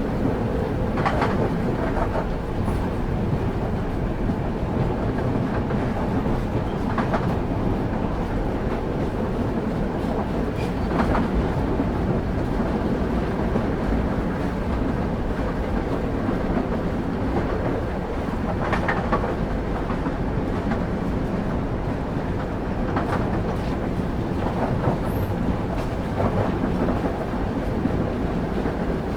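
Railway carriage heard from on board: the steady rumble of wheels running on the rails, broken every few seconds by an irregular clack as the wheels pass over rail joints.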